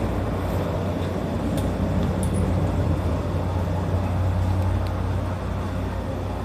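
Steady low hum and rumble inside an electric local train carriage, with a few faint clicks.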